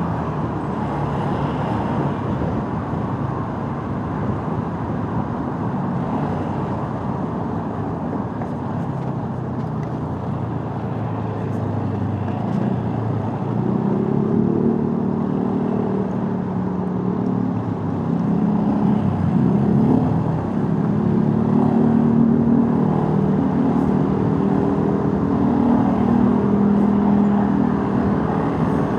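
Motorcycle on the move in traffic: engine running under a steady rush of wind and road noise. About halfway through, a louder engine drone with a wavering pitch comes in and carries on to the end.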